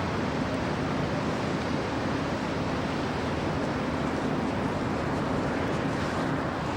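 Steady rush of storm wind and heavy ocean surf from a nor'easter, with the wind buffeting the microphone.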